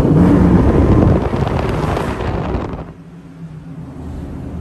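A car engine pulled hard with heavy wind noise, loud at first, then backing off sharply about three seconds in to a quieter steady drone.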